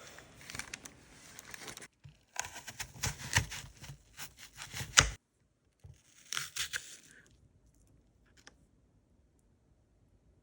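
Tearing and crinkling in a run of crackly bursts with sharp clicks, a shorter burst a second later, then quiet.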